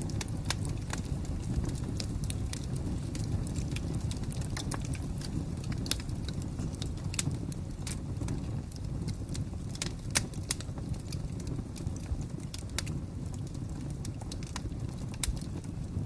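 Wood fire crackling: irregular sharp pops and snaps, a few louder ones, over a steady low rumble of burning flames.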